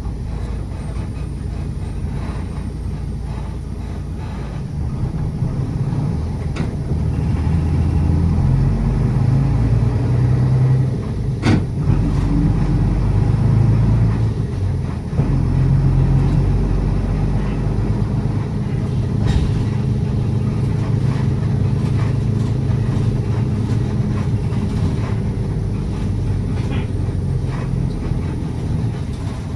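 City bus driving, heard from inside the cabin: a steady engine and road rumble whose pitch rises and falls as it goes through the gears. There is one sharp knock or rattle about halfway through.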